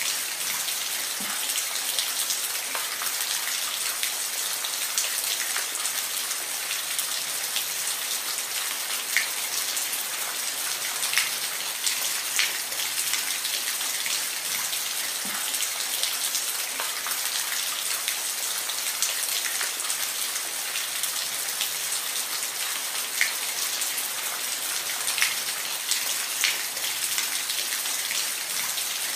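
Steady rain falling, a constant hiss with many individual drops ticking on a hard surface close by.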